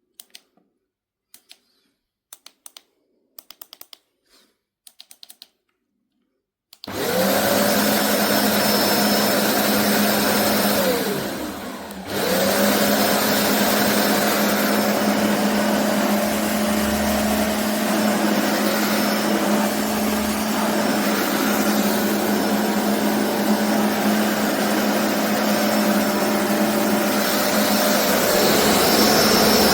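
A few light clicks and taps, then about seven seconds in a BISSELL Revolution HydroSteam carpet cleaner's suction motor switches on, its whine rising as it spins up. Around eleven seconds it briefly slows down and spins back up, then runs steadily.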